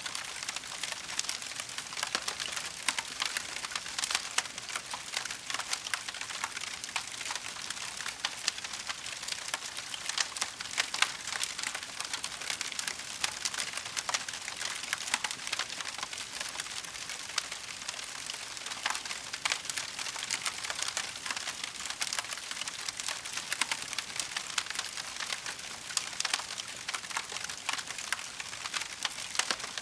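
Wood fire crackling steadily, a dense run of small sharp pops and snaps with no pause.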